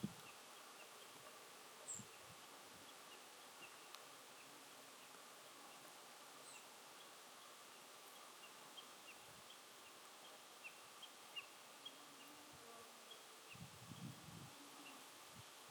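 Faint mountain ambience: a steady soft hiss with many short, high chirps scattered through it, and a few soft low rumbles near the end.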